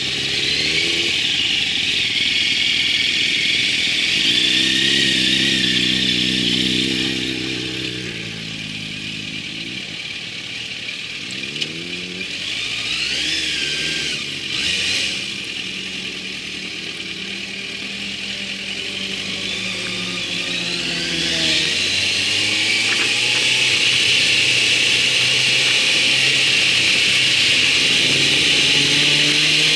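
Motorcycle engine running under way, its pitch climbing and dropping several times as it accelerates and shifts gears.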